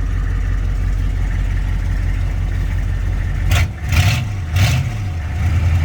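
GM 6.5 L turbo diesel V8 idling steadily, then revved in three quick blips about half a second apart a little past the middle before settling back to idle. The engine has a bad exhaust leak, which the owner thinks is under the driver's side bank.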